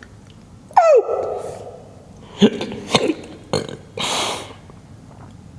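A man's wordless vocal sounds echoing in an empty gym: a loud falling whoop about a second in that rings on, then a few short vocal noises and a breathy burst.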